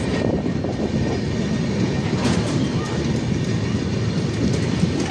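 Express train running at speed through a station, heard from an open coach door: a steady rumble of wheels on rail, with a brief clatter of rail joints a little over two seconds in.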